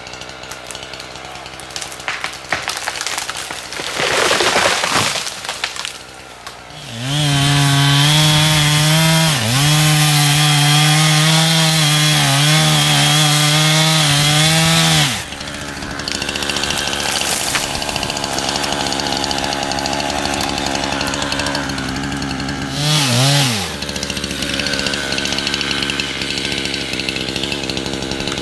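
Chainsaw engine revved to full throttle for about eight seconds, its pitch dipping once, then dropping back to a low steady run with one short rev near the end. A few seconds in there is a brief loud rush of noise.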